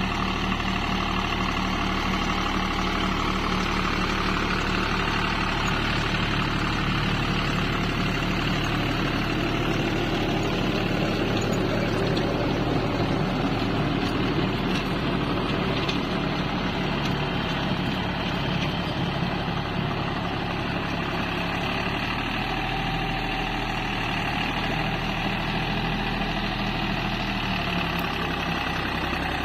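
Deutz-Fahr tractor engine running steadily while driving a Fieldking rotavator through the soil. Its note shifts slightly near the end.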